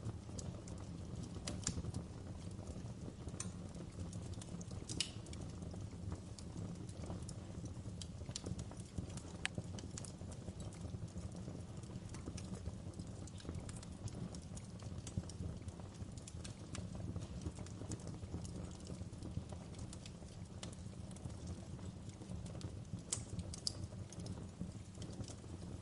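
Wood fire crackling in a fireplace: a steady low rumble of burning logs with frequent sharp pops and snaps at irregular moments.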